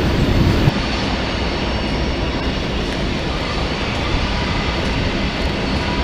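Diesel locomotive running, a steady low drone with a broad rushing noise over it.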